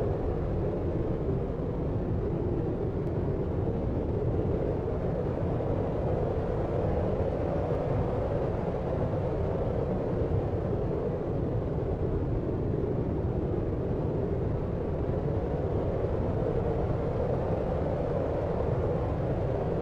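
Steady deep noise, a low, muffled rumbling hiss with little treble and no separate events, as in a brown-noise sleep track.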